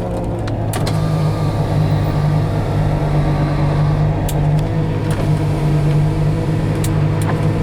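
Fuel-injected 5.7-litre Chevrolet V8 fitted in a 1972 Mercedes 280 SEL, running steadily and heard from inside the car. It gets a little louder over the first second, with a few faint clicks.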